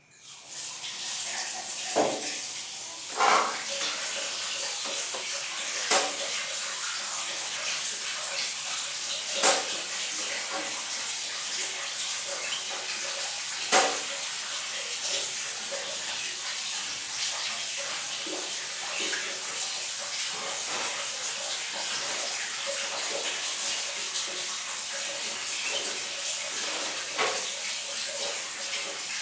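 Water running steadily in a bathroom, coming on at the very start, with half a dozen sharp knocks scattered through it.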